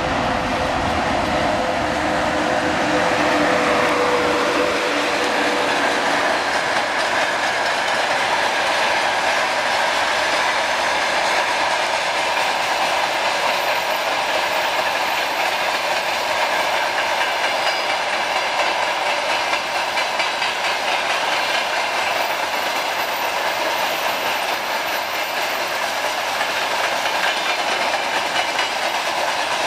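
Freight wagons (open gondolas and covered hoppers) rolling past on steel wheels over the rails, a loud, steady rolling noise. A steady hum from the departing VL80K electric locomotive fades out over the first few seconds.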